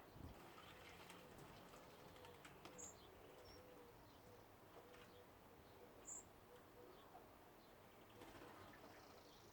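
Faint birdsong: a low, wavering call running throughout, with a few short high chirps, one about three seconds in and one about six seconds in. A scatter of faint clicks comes between one and three seconds in.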